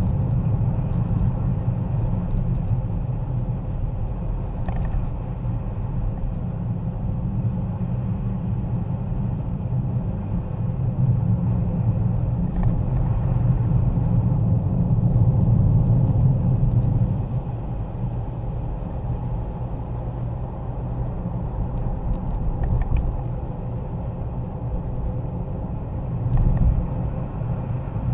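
Car driving: a steady low rumble of engine and tyre noise, swelling for several seconds in the middle and easing off again.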